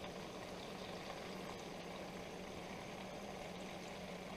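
Frog legs wrapped in bacon frying in oil in a skillet, a faint steady sizzle, with a low steady hum underneath.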